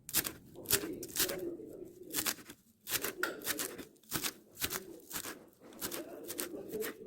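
A kitchen knife chopping fresh dill on a cutting board, with a run of short, sharp cuts about two or three a second at an uneven pace.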